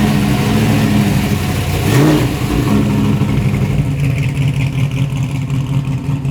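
A car engine idling steadily, with a brief rise in revs about two seconds in.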